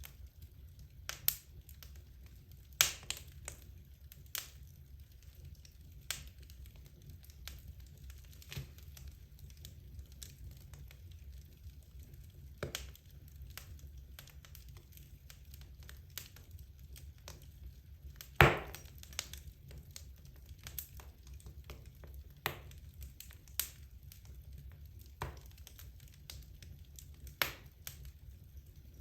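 Wood logs burning in a fireplace, crackling with irregular sharp pops and snaps over a steady low background, the loudest pop about two-thirds of the way through.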